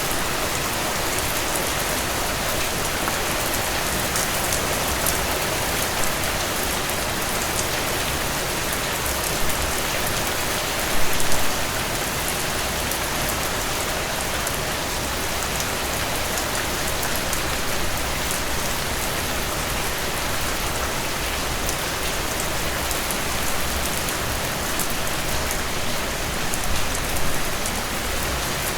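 Heavy rain falling steadily on a tin roof, a dense even patter with scattered sharp drop ticks and a couple of brief louder hits, one about eleven seconds in and another near the end.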